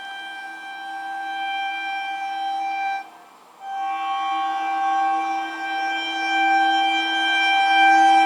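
Indian train's air horn sounding two long blasts, a short break between them; the second blast grows steadily louder as the train approaches.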